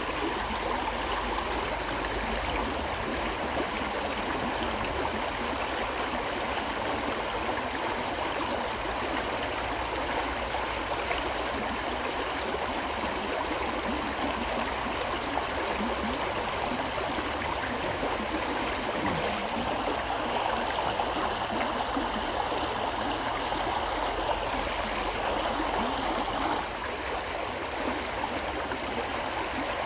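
A river flowing steadily, a continuous rush of water whose level dips slightly a few seconds before the end.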